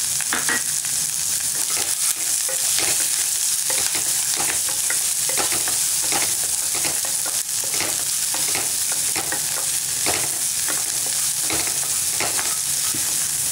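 Chopped onion sizzling in hot oil with a tempering of mustard seeds, dals, peanuts, green chilli and curry leaves, as a spoon stirs it, scraping the pan in short strokes about once or twice a second over a steady frying hiss.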